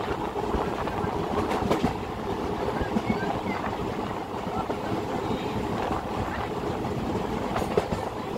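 Saptagiri Express passenger coach running at speed, heard from its open doorway: a steady rumble and rattle with a few sharp clicks from the wheels on the track.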